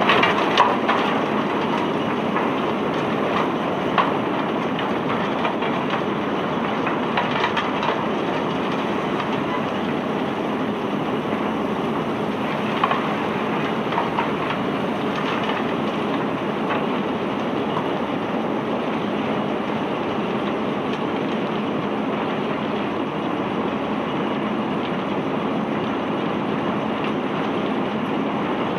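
Steady mechanical noise of cargo-handling machinery unloading phosphate ore from a ship, with several sharp metallic clanks in the first half.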